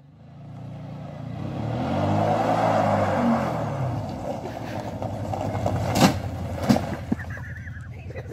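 Car engine running, revving up and back down, then two sharp bangs less than a second apart, followed by a few lighter knocks.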